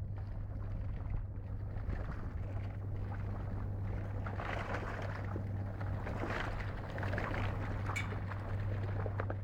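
Boat engine droning steadily under the rushing hiss of water and wind, which grows louder about halfway through.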